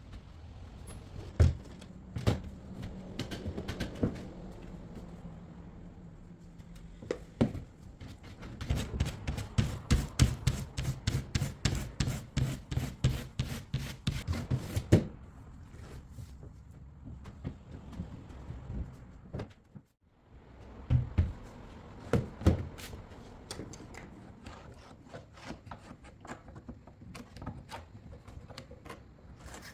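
Irregular knocks and rubbing of hand work, with a quick run of sharp taps, about four a second, from about nine to fifteen seconds in.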